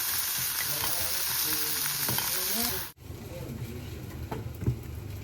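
Food sizzling in a frying pan: a steady hiss that cuts off abruptly about three seconds in. Quieter room sound with a few light knocks follows.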